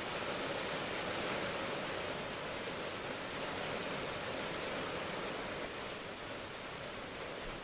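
Steady rain falling, an even, continuous wash of rainfall with no separate drops or other sounds standing out.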